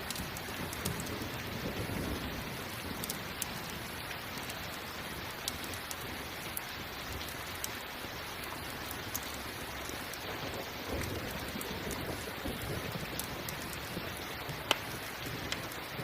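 Steady rain with the small sharp crackles and pops of a campfire scattered through it, one louder pop near the end. Low, soft rumbles of distant thunder swell up twice.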